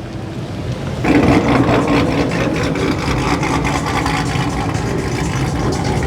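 A car's engine and exhaust running, growing suddenly louder about a second in and staying loud.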